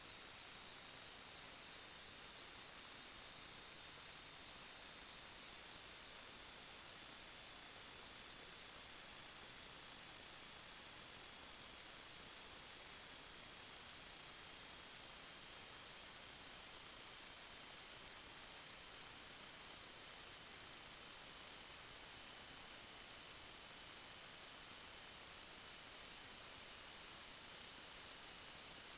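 Steady high-pitched electronic whine over constant hiss, with its pitch drifting very slightly upward.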